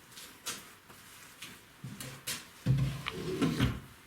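Light clicks and knocks of metal engine parts being handled, the rocker arms of a VAZ camshaft being picked up and turned over, with a louder cluster of knocks and rustling past the middle.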